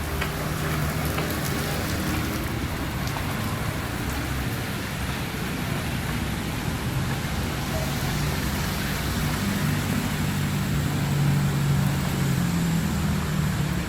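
Heavy rain falling steadily, an even hiss. Underneath it a low hum shifts in pitch and grows louder in the last few seconds.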